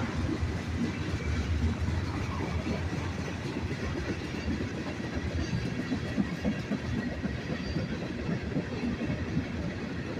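Freight train rolling past: a steady rumble of steel wheels on the rails.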